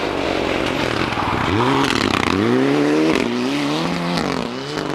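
Rally car engine accelerating hard, its pitch climbing and dropping back at a couple of upshifts before it settles, over heavy road and tyre noise.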